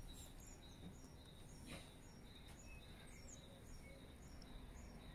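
Faint birdsong: small birds giving a steady run of short, high chirps over low background noise.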